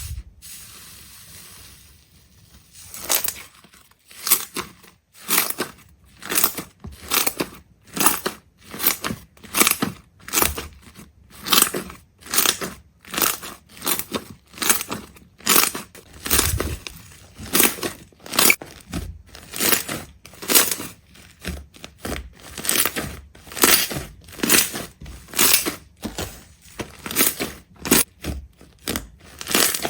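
A short hiss, then a long run of crisp crunching strokes, roughly one or two a second, like something brittle being crushed or cut.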